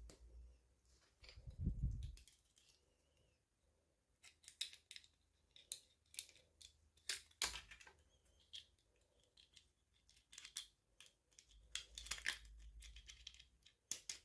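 Faint, scattered small clicks and snips, with some rustling, of toy packaging being handled and opened.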